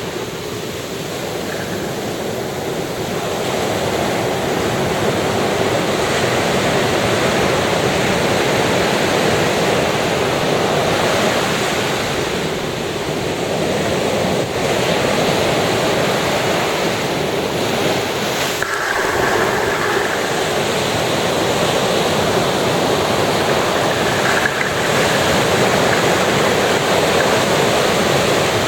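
Ocean surf breaking and washing up a sandy beach in a continuous rush, swelling and easing with the waves.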